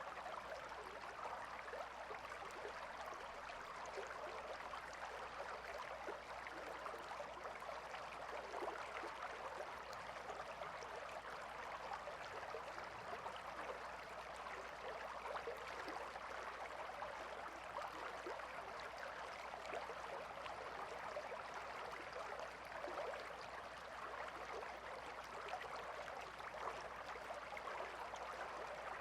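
A calm river flowing: a steady, even babble of water with no change throughout.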